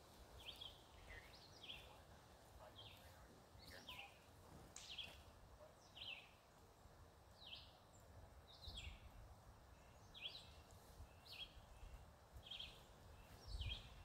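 Quiet outdoor ambience with a bird's short, high, downward-sweeping chirps repeated about once a second, over a faint low rumble.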